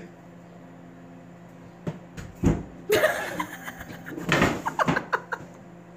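A large long-haired cat bounds down a wooden staircase: a series of knocks and thumps from its landings. They are loudest in two clusters, around the middle and again toward the end, over a steady low hum.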